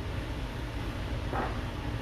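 Steady low hum of room noise, with one faint brief scrape or rustle about one and a half seconds in.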